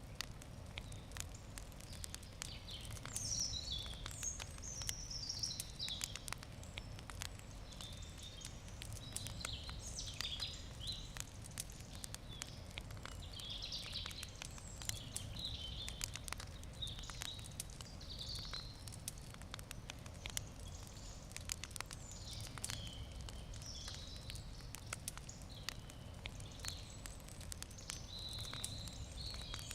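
Wood campfire crackling, with frequent sharp pops and snaps. Birds sing in the background, with short, repeated chirping phrases throughout.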